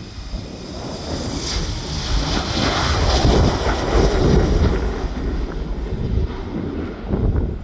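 Jet airliner engines on takeoff, a roar that swells to its loudest about three to four seconds in and then fades as the aircraft passes. Wind buffets the microphone throughout.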